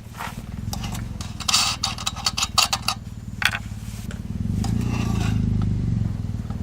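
A motor vehicle engine running steadily, swelling a little past the middle, with clattering and scraping of gear handled close by in the first half.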